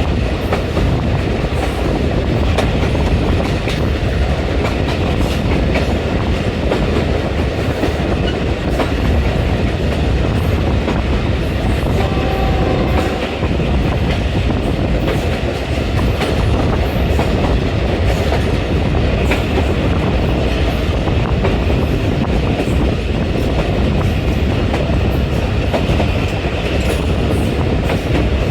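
Moving passenger train running steadily, with continuous running noise and the wheels clicking over rail joints.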